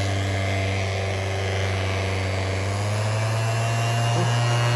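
Bauer 5-inch random orbital palm sander (2.8 A electric) switched on and running, a steady motor hum and buzz that rises slightly in pitch about three seconds in.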